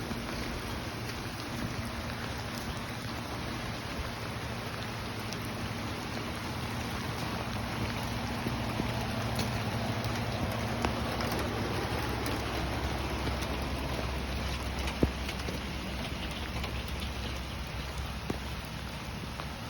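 Steady rain falling and pattering on surfaces, with a low rumble underneath and one sharp tap about fifteen seconds in.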